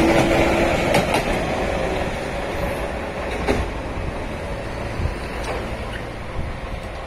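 Keihan 700 series two-car train running past close by and pulling away, its running noise fading steadily. A few wheel clicks over rail joints sound, two about a second in and one more a couple of seconds later.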